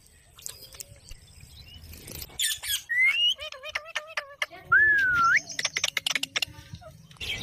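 Green parrot calling: from about two seconds in, a quick run of clicks and chirps, then whistled calls that rise and fall, mixed with sharp squawks.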